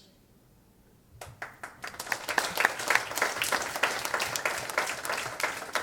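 Audience applause. The first scattered claps come about a second in, then they quickly build into steady, dense clapping from many hands.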